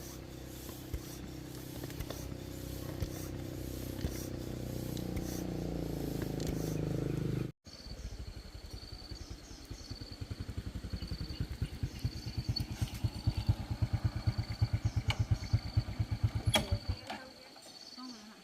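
A small engine running steadily and growing louder. After a sudden cut it runs at an even putter of about ten beats a second, then stops about a second before the end.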